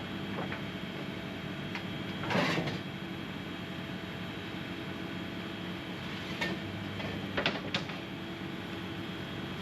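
A machine hums steadily, with a short whoosh about two and a half seconds in and a few sharp clicks or knocks near the end.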